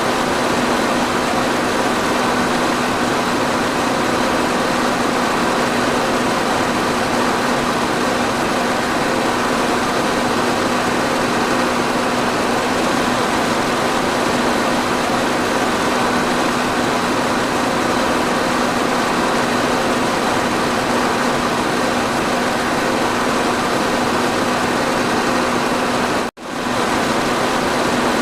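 Electric fan running steadily: an even whoosh of moving air with a steady hum from the motor. The sound cuts out for a split second near the end and comes straight back.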